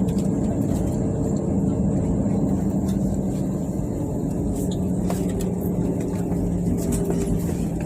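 Steady low hum of an Airbus A320's passenger cabin, with a couple of held droning tones and a few faint clicks.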